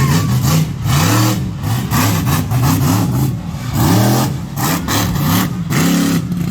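Monster truck engine revving hard, its pitch rising and falling in repeated surges.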